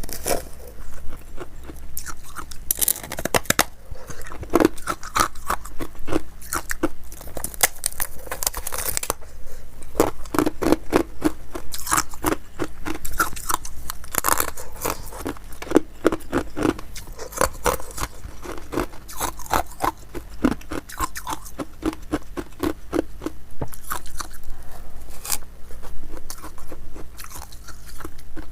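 Ice cubes being bitten and chewed close to the microphone: a continuous run of rapid, crisp crunches.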